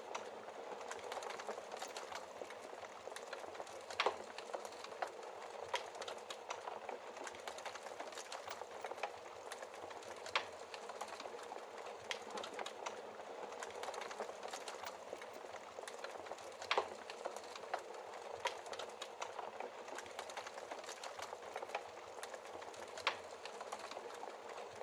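Wood fire crackling in a fireplace: a steady hiss with frequent small pops, and a handful of louder pops spaced several seconds apart.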